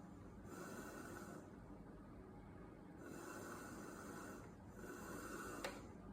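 DeLonghi ECAM 23.266.B coffee machine's milk system hissing on and off, in three spells of about a second each, with a single sharp click near the end. This is the strange noise it makes when drawing milk or flushing the milk carafe, a fault whose cause the owner does not know.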